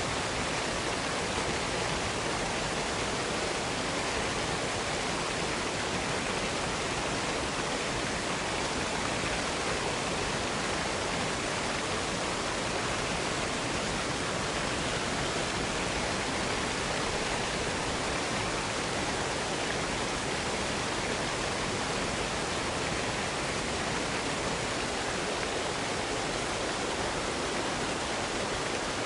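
Waterfall rushing, a steady even hiss of falling water that does not change.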